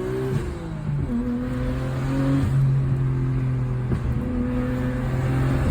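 Nissan GT-R engine under way: the engine speed drops at a gear change a moment in, then holds at a steady pitch with small steps up and down.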